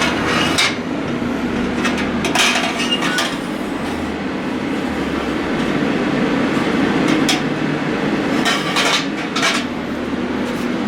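Metal pipe sections for a turbo cold-side intake clinking and clanking as they are handled and fitted together, in a few separate bursts, over a steady low hum.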